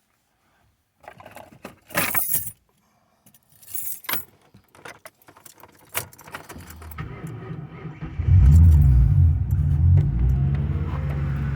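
Keys jangle for a few seconds, then the 1994 Ford Thunderbird LX's 4.6-litre V8 cranks and fires on a cold start, about eight seconds in. It flares loudly and settles into a steady, deep fast idle through straight pipes with the muffler deleted.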